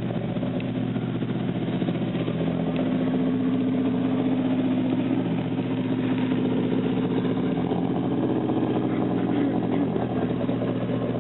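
Exhaust of a turbocharged Scion tC's four-cylinder engine, through a 3-inch Boost Works exhaust with a Vibrant resonator, running steadily at idle, a little louder from about three seconds in.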